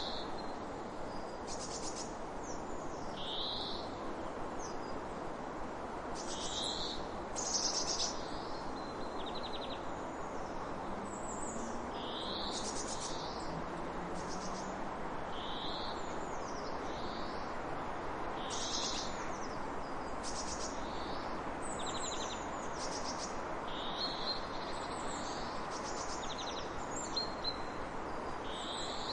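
Birds chirping and calling over and over in short high notes, some sweeping downward and some buzzy, over a steady rushing background noise.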